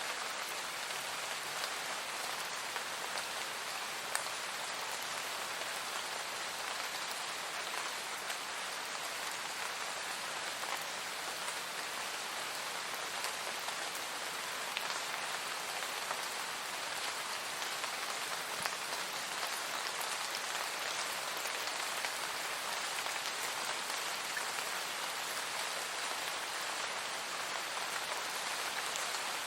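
Steady, even rain falling, a dense hiss with the small ticks of individual drops scattered through it.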